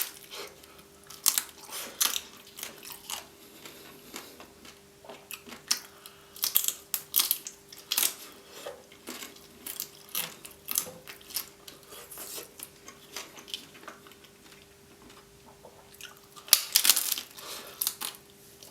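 Close-miked chewing and crunching of a hard taco shell filled with roast chicken: irregular crisp crackles, with two thicker flurries of bites, one about six seconds in and another near the end.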